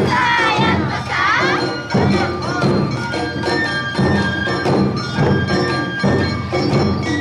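Awa Odori festival music from a marching narimono band: drums beating a steady rhythm, a clanging kane hand gong, and a flute playing held notes over them.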